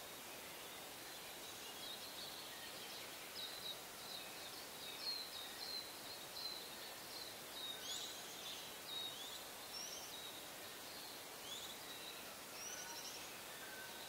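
Small birds chirping: a loose series of short, high chirps that begins a couple of seconds in and runs on to near the end, over a steady outdoor hiss with a thin, steady high tone.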